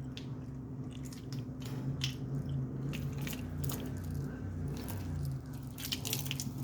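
Parrot biting and chewing with its beak, making irregular sharp clicks and crunches, over a steady low hum.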